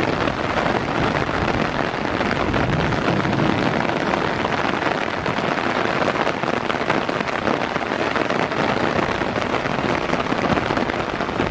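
Heavy, steady rain, with raindrops striking the rain-soaked camera microphone directly.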